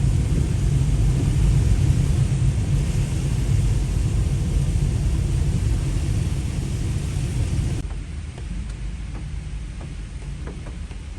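Rainstorm noise: a loud, steady low rumble with a hiss over it. About eight seconds in it cuts off suddenly to a quieter hiss with a few faint ticks.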